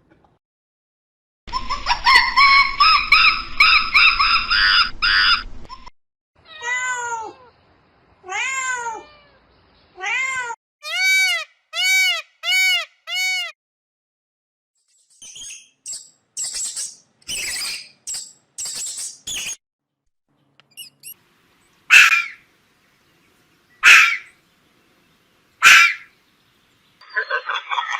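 Cat meowing, a string of short calls that rise and fall, about a dozen of them, after one longer drawn-out call at the start; high chirps follow, then three sharp short calls about two seconds apart.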